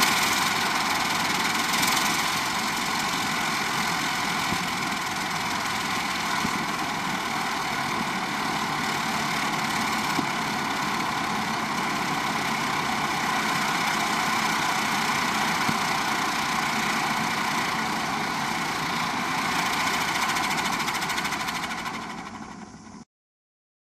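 A ground firework burning steadily with a dense rushing spray for about twenty seconds, then dying away quickly and cutting off near the end.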